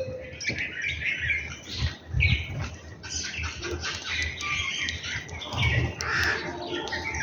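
A group of small birds chirping and squawking over each other in quick, overlapping calls while feeding together, with a couple of low muffled thumps about two seconds in and again near the end.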